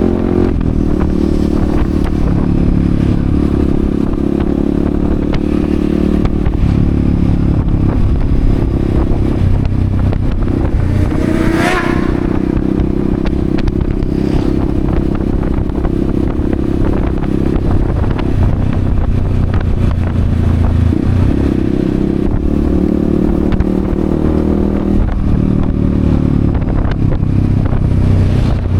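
Yamaha XSR155's single-cylinder engine running while the motorcycle is ridden, its pitch rising and falling in steps with throttle and gear changes.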